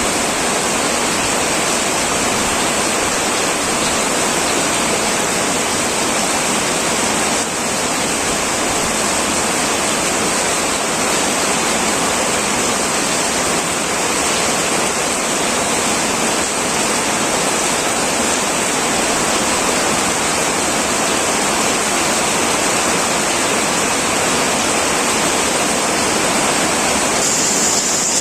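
Heavy rain pouring steadily on a tin metal roof, a dense, unbroken hiss with no single drops standing out.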